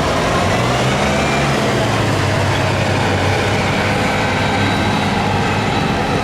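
Tractor engine running steadily and loud, with its pitch shifting slightly about a second in.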